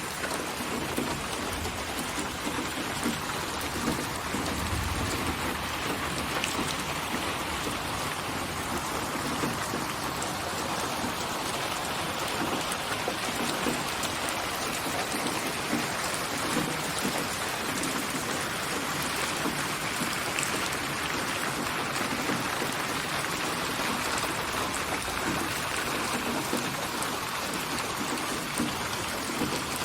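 Steady rain falling and pattering on surfaces, with a brief low rumble about five seconds in.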